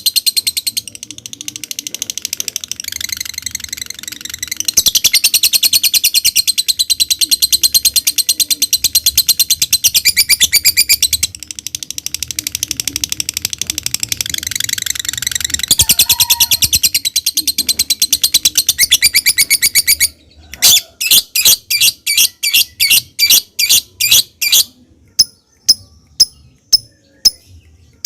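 Lovebird singing a long, fast, high-pitched chattering trill (ngekek). About twenty seconds in it breaks off into separate sharp chirps, about three a second, then shorter ticks about two a second.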